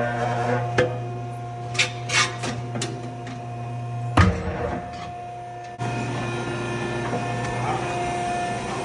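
A machine's motor running with a steady hum, with a few sharp knocks over it. It cuts out with a loud knock about four seconds in, then starts again a second and a half later.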